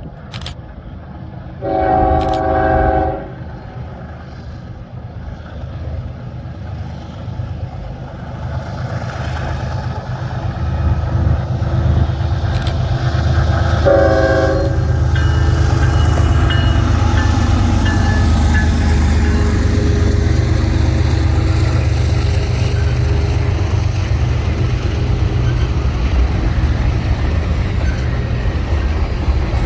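Diesel train's horn sounding a long chord, then a short blast about twelve seconds later, as the train approaches. The engine rumble and rolling noise build from about ten seconds in and stay loud as it passes.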